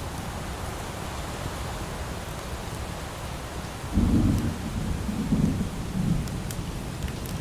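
Steady light rain, then about four seconds in a low rumble of thunder breaks in, swelling three times over the next two seconds and easing back under the rain.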